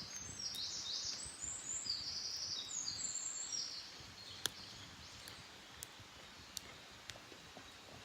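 A wild songbird singing a quick run of high notes for the first four seconds or so, then a few separate sharp pops from a small wood fire.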